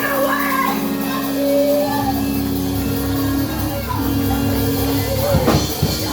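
Gospel praise music: a held chord sounds under wavering voices, with a few drum hits about five seconds in.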